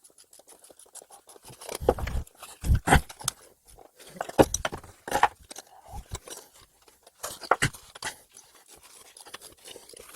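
Irregular knocks, clicks and scrapes of hand work on a firebrick lintel being assembled on threaded rods. The heaviest knocks fall about two, three and four and a half seconds in, with lighter clicking and scraping between them.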